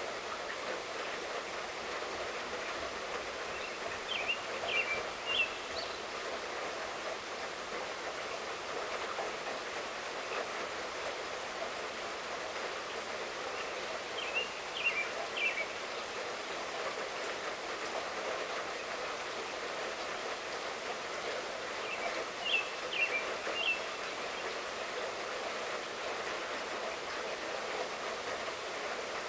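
Steady light rainfall with no thunder. A bird calls a short phrase of three or four chirps about every eight or nine seconds.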